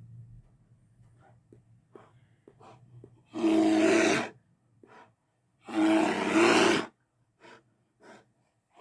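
Two T. rex roar sound effects, each lasting about a second, the second slightly longer, with short faint huffs around them.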